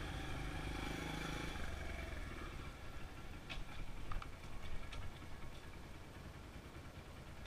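A Honda XR100 dirt bike's small single-cylinder four-stroke engine running quietly at low revs. Its sound dies away after about a second and a half. A few faint clicks and knocks follow over a low rumble.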